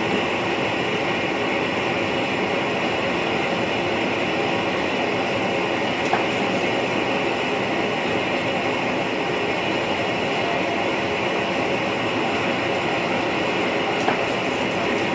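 Steady running noise inside the driver's cab of an NS VIRM double-deck electric train moving along the track, with a faint steady hum running through it. There is a single sharp click about six seconds in and another near the end.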